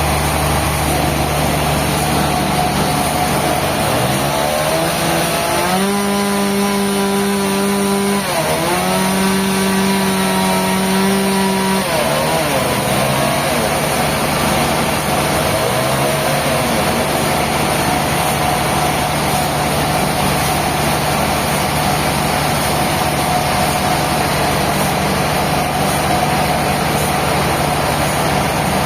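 A steady engine running, with a second engine revving up about five seconds in, held at high speed for several seconds with a brief dip, then dropping back to idle.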